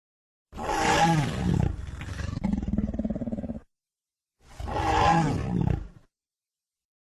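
Two creature calls from a Sarcosuchus sound effect, with silence between them. The first has a pitched part that falls in pitch, then trails off into a low, rattling growl. The second is shorter and also falls in pitch.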